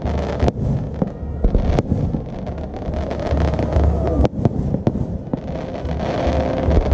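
Fireworks display: aerial shells bursting in a string of sharp bangs over a steady low rumble, with a denser run of crackling near the end.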